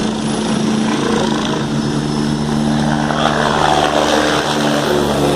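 Helicopter running, a loud, steady drone of its engine and rotor.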